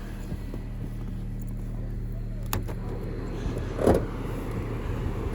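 Car engine idling steadily with a low hum, with a sharp click about two and a half seconds in and a dull thump near four seconds.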